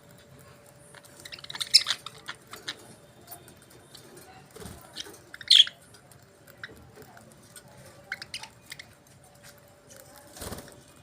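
Budgerigars chirping in short, scattered high-pitched bursts, over a faint steady hum.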